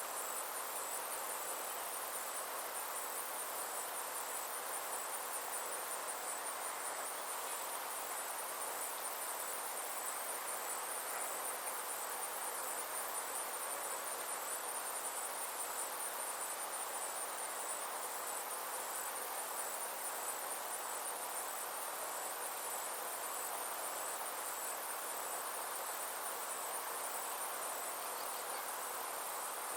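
Summer insects trilling: a steady, high-pitched, rapidly pulsing chirr that holds unbroken, over a soft even outdoor hiss.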